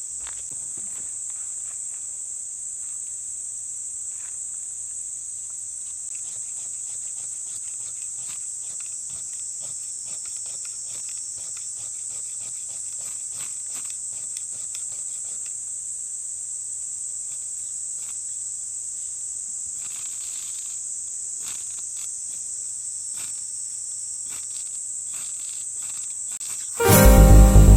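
Insects chirping in a steady high-pitched chorus, with scattered faint crackles and clicks from a wood campfire. Loud music comes in about a second before the end.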